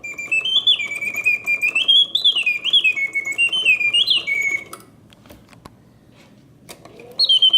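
Early-1950s German singing birdcage's mechanical bird whistling a warbling song of notes that rise and fall, stopping for about two seconds with faint ticking of the clockwork, then starting again. The pause in the song shows the pause mode working, which needs the bellows and mechanism to be in excellent condition.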